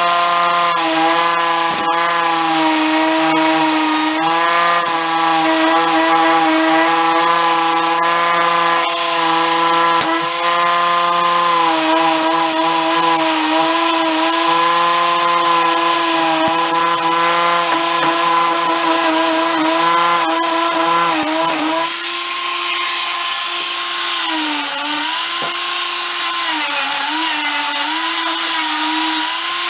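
Handheld electric power tool running at high speed, its whine dipping in pitch whenever it is pressed into the work, over a steady scraping hiss of grinding or sanding. About two-thirds of the way through, the lower hum drops away and the dips become deeper.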